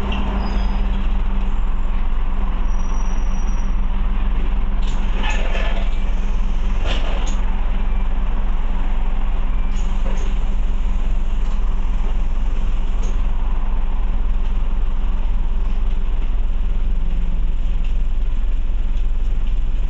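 Scania OmniCity bus running on the road, heard from inside the passenger saloon: a steady engine drone with a constant low hum. A few short noisy spells break in about five to seven seconds in and again around ten and thirteen seconds.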